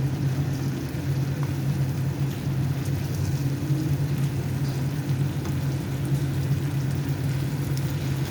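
Chicken adobo sizzling in the pan as its sauce reduces and thickens, a steady crackling over a constant low hum.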